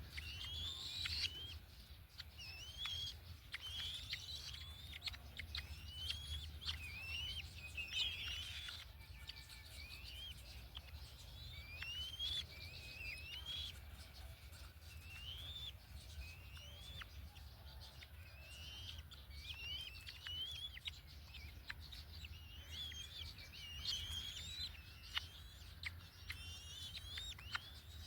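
Birds chirping: many short, high calls, each rising and then dropping in pitch, come in irregular runs throughout. A low steady rumble sits underneath.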